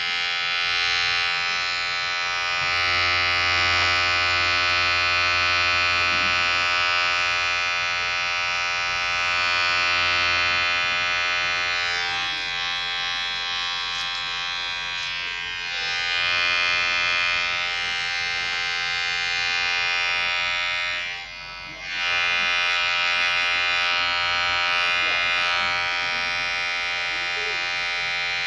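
Electric hair clipper running with a steady buzzing hum. It dips briefly in loudness about three-quarters of the way in, then carries on.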